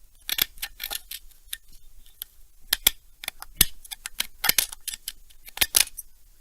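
Irregular sharp clicks and taps of small metal parts being handled and knocked together, some in quick clusters, the loudest about halfway through.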